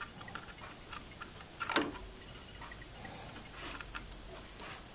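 Faint, scattered clicks and light knocks of a 2.5"-to-5.25" drive adapter being slid into a desktop computer's 5.25-inch drive bay, with a sharper click about two seconds in.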